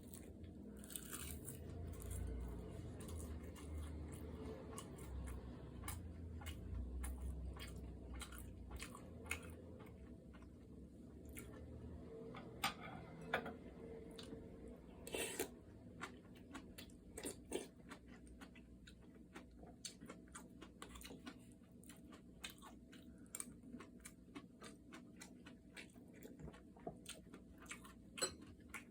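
A person chewing and crunching food close to the microphone, with many short sharp clicks of mouth and bite sounds.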